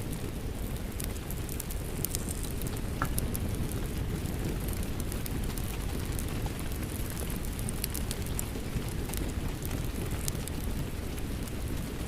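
Crackling wood fire mixed with steady rain: a constant low rush with frequent sharp pops and crackles scattered throughout.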